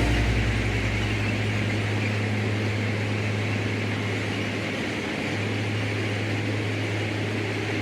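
Railway ballast cleaning machine running steadily: an even mechanical drone with a constant low hum.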